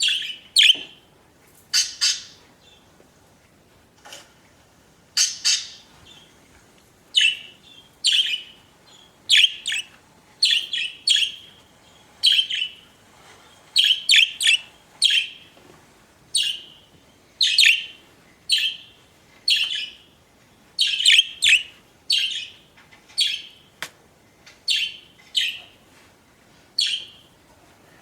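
Pet budgerigars calling: a run of short, sharp, high chirps, each dropping slightly in pitch, coming one or two a second with a brief lull early on.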